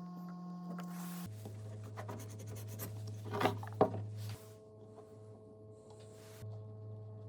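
Light scraping and rubbing on wood, with two sharp knocks about halfway through, over a steady low hum.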